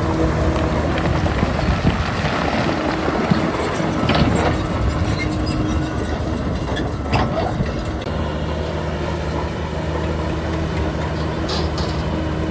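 Diesel engine of heavy earthmoving machinery running steadily with a low drone, with a few sharp clanks about a third and halfway in.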